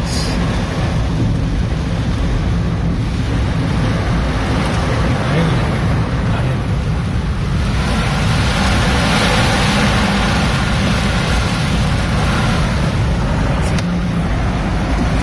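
Steady road traffic noise with vehicles running, rising to a louder rushing swell for several seconds in the middle as something passes close by.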